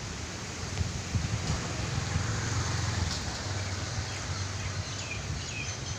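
Storm wind rushing through trees and rustling the leaves, with gusts buffeting the microphone in a low rumble.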